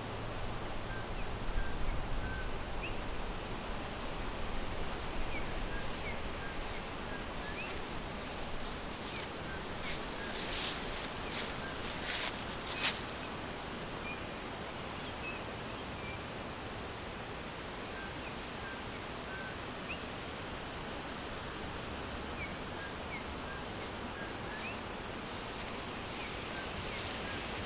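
Forest ambience: small birds give faint, short, scattered chirps over a steady background hiss. A few brief rustling bursts come about a third of the way in, the loudest a sharp one just before the middle.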